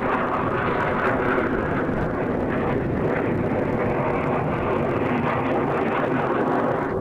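A fixed-wing aircraft's engine sounding steadily during an air show flight.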